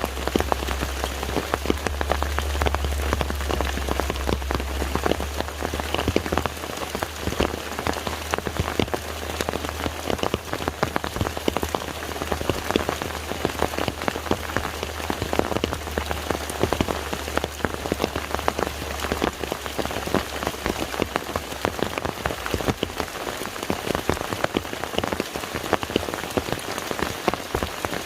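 Rain falling on a lake: a dense, steady patter of many separate drops hitting the water. A low steady hum underneath fades out about twenty seconds in.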